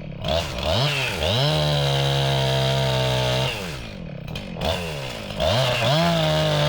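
Husqvarna 262XP two-stroke chainsaw cutting into a hollow, rotten maple. It is blipped twice, held at full throttle for about two seconds, dropped back to idle, then run up to full throttle again near the end.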